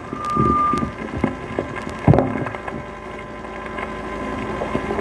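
Knocks and thumps of a microphone being handled over a public-address system, the loudest about two seconds in, with a brief steady high tone near the start and a steady low hum underneath.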